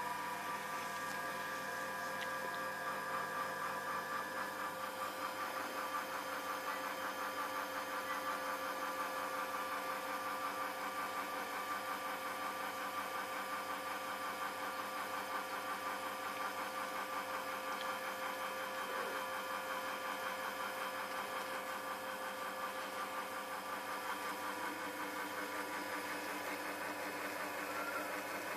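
Rocket espresso machine pump running with a steady buzzing hum, the tone shifting slightly about five seconds in. The owner questions whether this sound means the pump is bad.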